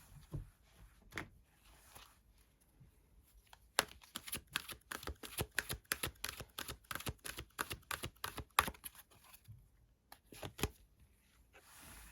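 Tarot cards being shuffled by hand: soft sliding at first, then a quick run of card snaps for about five seconds, and a couple of single snaps near the end.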